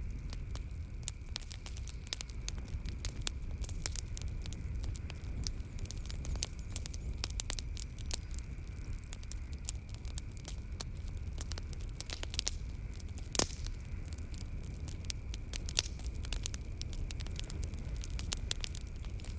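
Wood fire crackling in a fireplace: a steady low rumble of flames with frequent sharp pops and snaps, one louder pop about two-thirds of the way through.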